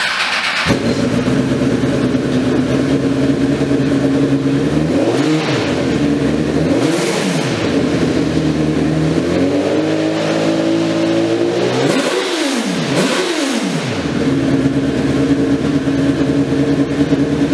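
Golf cart fitted with a 2007 Honda CBR1000RR fuel-injected inline-four motorcycle engine, idling and being revved: several throttle blips that rise and fall in pitch, including two quick ones a little past the middle, then back to a steady idle.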